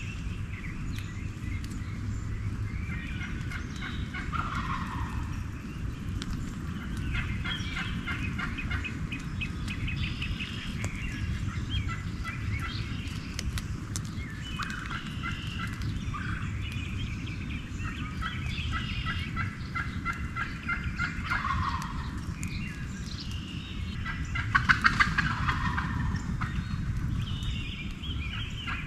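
Wild turkey gobblers (Eastern wild turkeys) gobbling again and again, several rattling gobbles a few seconds apart, with the loudest one near the end, over a steady low background rumble.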